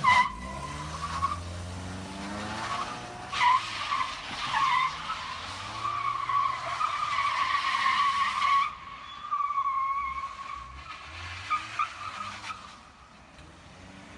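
Car tyres squealing in a skid, a wavering high screech that runs for most of the stretch and fades after about ten seconds. A sudden loud bang comes at the start, and another about three and a half seconds in.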